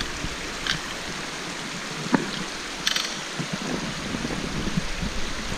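Steady rush of creek water over rock, with a few short sharp clicks and scrapes, three of them standing out.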